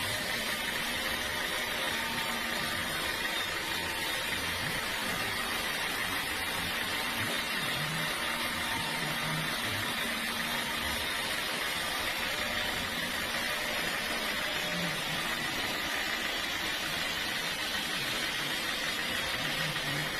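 Sawmill machinery running steadily, a continuous mechanical hum and hiss with a faint high whine that does not let up.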